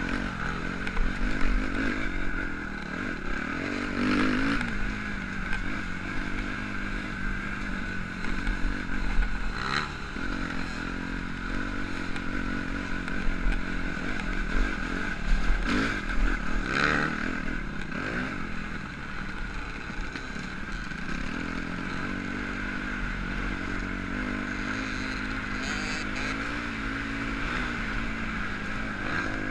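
Motocross bike engine running steadily on the track, with a few sharp knocks and clatters scattered through.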